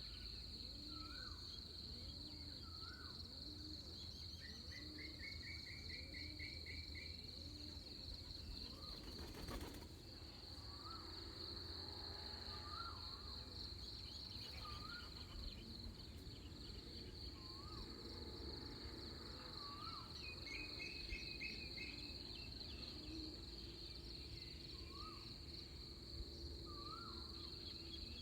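Pre-dawn chorus of insects and birds: a steady high insect drone, with a bird's short call repeating about every second and a half and a lower call repeating in quick succession through the first half. A rapid bird trill comes twice, about five seconds in and again about twenty seconds in.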